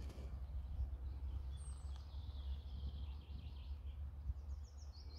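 Low wind rumble on the microphone with a small songbird singing: a run of quick notes about two seconds in, then a fast series of high, repeated notes near the end.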